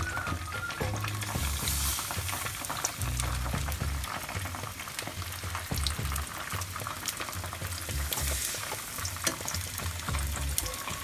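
Battered onion rings and chicken pieces deep-frying in hot oil: a steady sizzle full of fine crackles.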